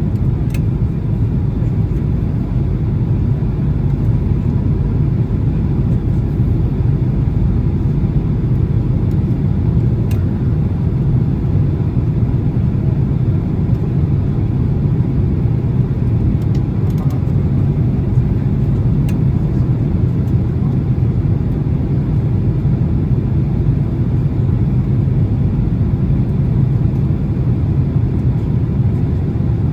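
Steady low rumble of engine and airflow noise inside the cabin of a Boeing 767-300 in flight, with a few faint ticks.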